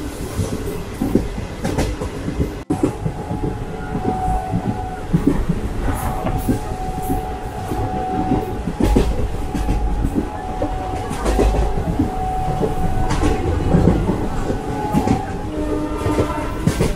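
Express passenger train running along the line, heard from inside the coach: a steady rumble with wheels clacking over the rail joints. The sound breaks off for an instant about three seconds in.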